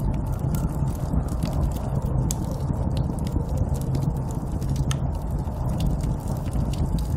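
Steady low rumble of snowstorm wind, with frequent small sharp crackles and pops scattered through it at an irregular pace.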